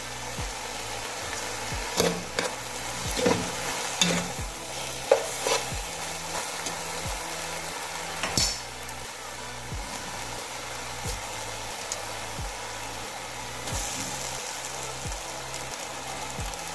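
Chicken and vegetables sizzling in a pot with a steady frying hiss, as boiled spaghetti is tipped in on top. A few light knocks and clicks come in the first half.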